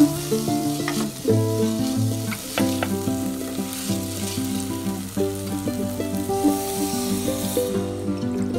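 Diced vegetables frying and sizzling in oil in a pan as they are stirred with a spatula, with a few sharp utensil clicks in the first seconds. Background music with changing notes plays under it throughout.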